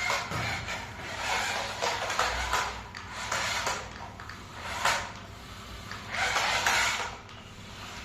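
Irregular rubbing and scraping sounds, with several louder bursts about two, five and six to seven seconds in.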